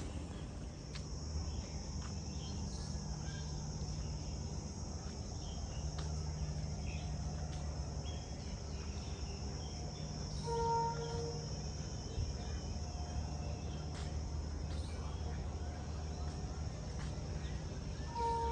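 A steady high-pitched drone of insects such as crickets, over a low steady hum, with faint scattered bird chirps. A short tone with two pitches sounds briefly about ten and a half seconds in.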